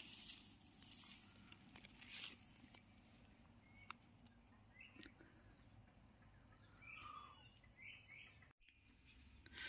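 Near silence with a few faint bird chirps: short calls about four to five seconds in and again around seven to eight seconds, over a light rustle in the first couple of seconds.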